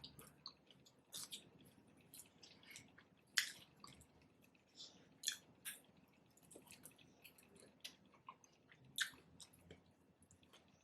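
Faint close-miked chewing of a fried chicken sandwich: soft wet mouth clicks and smacks scattered through, the sharpest a little over three seconds in and again about nine seconds in.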